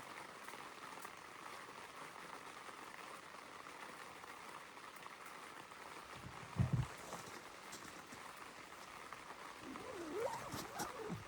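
Rain falling steadily on the tent, faint and even. A single dull thump comes a little past halfway, and a few short, faint pitch-bending sounds come near the end.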